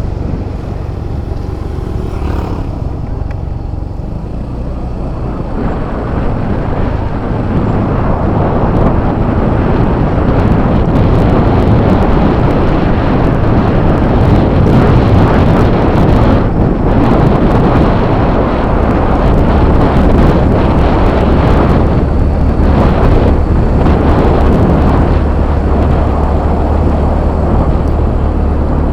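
Yamaha Fazzio scooter on the move, its engine running under heavy wind rush on the microphone, growing louder about six seconds in.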